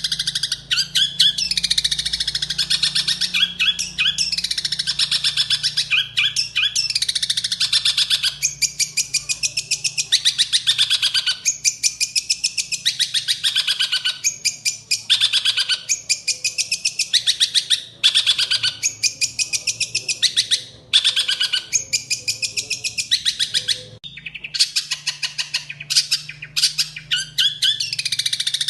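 Songbird singing a fast, continuous chattering song of rapid high notes, broken by brief pauses every couple of seconds.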